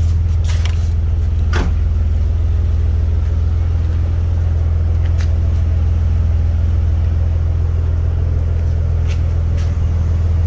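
Nissan 300ZX twin turbo's 3.0 V6 idling steadily with the key out, kept running by its turbo timer to cool the turbochargers before it shuts itself off. A few light clicks sound over the idle.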